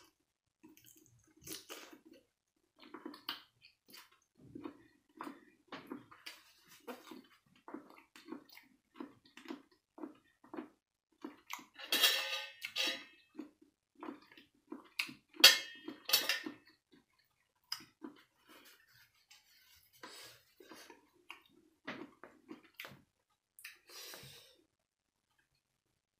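A person chewing and smacking food close to the microphone: short wet mouth sounds about every half second. Two louder noisy bursts come near the middle, the second with a ringing metal clink, like a spoon against a metal serving tray.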